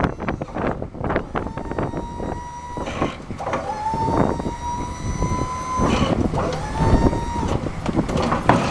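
Electro-hydraulic pump motor of a Hiniker snowplow whining in three runs of one to two and a half seconds, rising in pitch as it spins up, as the blade is moved. Wind buffets the microphone throughout.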